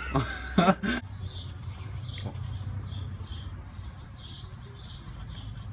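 Small birds chirping over and over, about two short high chirps a second, above a steady low hum.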